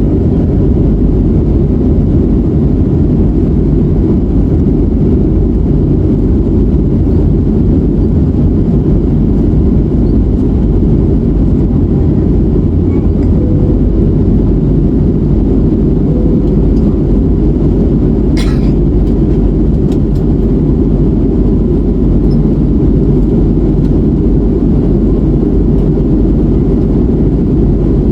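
Steady cabin noise of an Airbus A321neo in its climb: a loud, dense, even rumble from the PW1100G geared turbofan engines and the airflow over the fuselage. A single short click comes about two-thirds of the way through.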